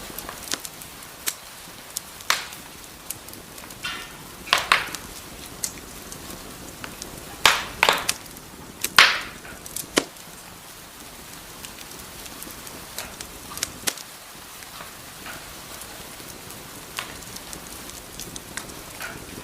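Wood fire crackling in a fireplace: a steady hiss with scattered sharp pops, louder clusters of snaps about halfway through.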